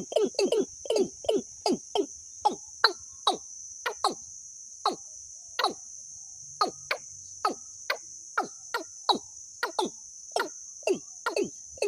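A bird calling in a long series of short, sharp downslurred notes, about four a second at first, slowing to about one a second in the middle, then speeding up again near the end. A steady high-pitched insect drone runs underneath.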